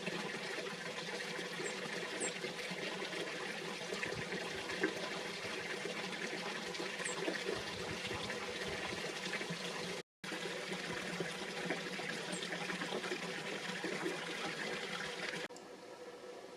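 Steady rushing of running water, with a few faint high chirps. The sound cuts out briefly about ten seconds in and becomes quieter near the end.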